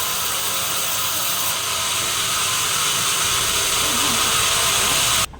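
Sawmill saw running through a log with a loud, steady, hissing noise that cuts off suddenly near the end.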